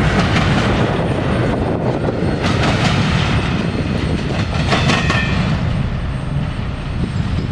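Freight train rolling along the rails with a steady low rumble and the clatter of wheels over the track. There is a brief metallic wheel squeal about five seconds in.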